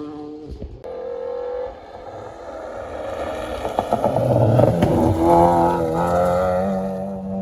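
Rally car engine running hard at high revs, its pitch shifting and then climbing and holding near the end, with a spell of crackling and popping about halfway through.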